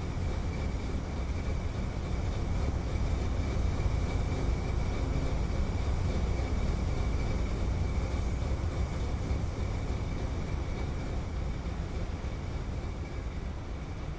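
Container freight train rolling past, a steady low rumble that swells a little about four seconds in and eases toward the end, with a faint steady high ring over it.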